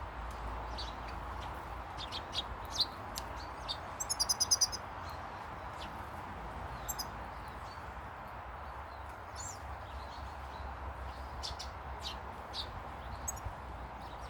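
Small garden birds chirping, with scattered short calls throughout and a quick run of about seven notes around four seconds in, over a steady background hiss.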